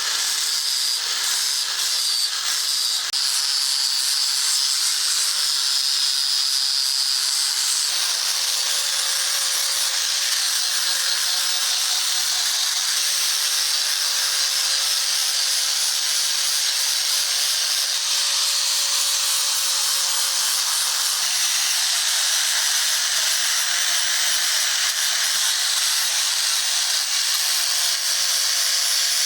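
An electric abrasive tool running against the steel machete blade, a steady grinding hiss over a faint motor hum, as the blade is ground, polished or sharpened. The pressure shifts a little a few times.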